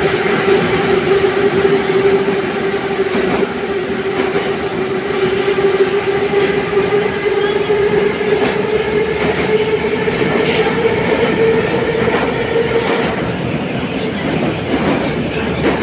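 81-717.5 metro car running through the tunnel: a steady loud rumble with a continuous whine that drifts slightly in pitch, and now and then a click of the wheels over the rail.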